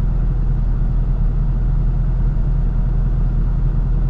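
The LS-swapped 1981 Chevrolet C10's V8 engine running at a steady low hum, heard from inside the cab.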